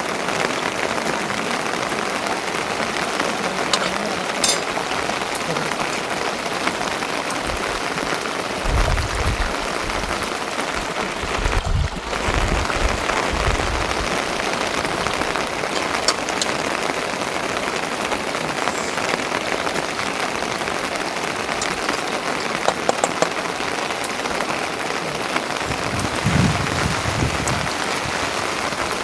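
Steady rain falling, an even hiss, with two spells of low rumbling: one about a third of the way in and a shorter one near the end.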